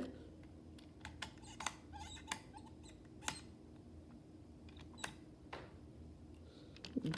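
Faint, scattered light clicks and taps, about eight, spread irregularly over a low steady hum.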